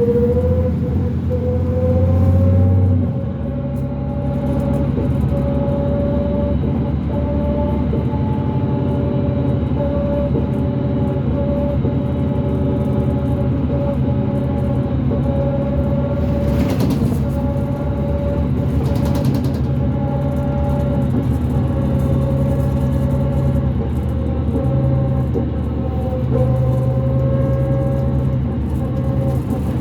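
A 2005 New Flyer D40LF bus's Cummins ISL diesel and drivetrain heard from inside while the bus is under way. A steady high whine, the axle noise that stands out on this bus, rises in pitch over the first second and then holds. About three seconds in, the engine drone drops as the ZF automatic shifts up. Two brief rushing noises come past the middle.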